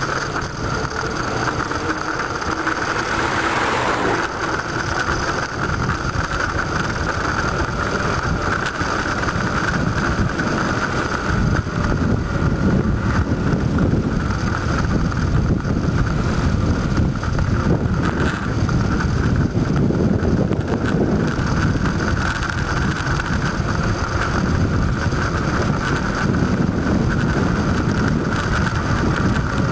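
Wind rushing over the microphone of a camera on a moving bicycle, a steady noise that grows heavier and lower in rumble from about twelve seconds in, with a brief brighter hiss about three seconds in.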